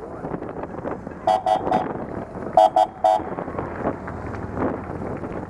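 A vehicle horn beeping three quick times, then three more about a second later.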